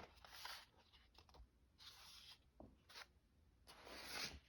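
Near silence with faint scraping and rustling of paper being handled on a work table: three soft swishes and a few small ticks.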